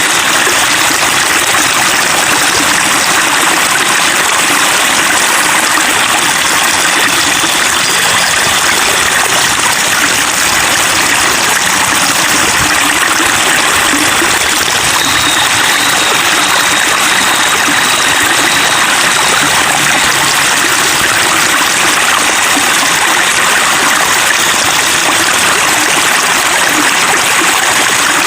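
Flowing water babbling and trickling steadily and without a break.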